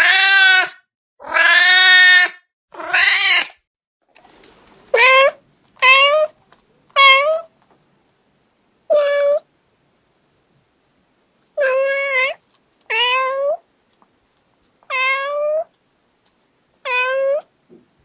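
Angry cat meowing over and over, about eleven calls in all. The first three are long and loud, close together; the rest are shorter meows spaced one to three seconds apart.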